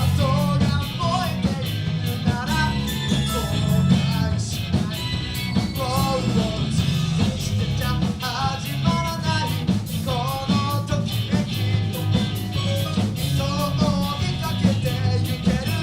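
A live rock band with electric guitars, bass, drums and keyboard playing a song at full volume, with a melody line wavering over a steady drum beat.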